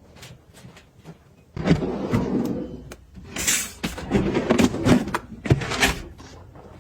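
Household items being handled and set down: a string of small knocks and clicks, turning into louder, busier clattering about a second and a half in.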